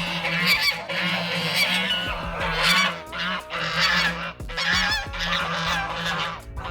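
A flock of domestic geese honking repeatedly, many calls overlapping.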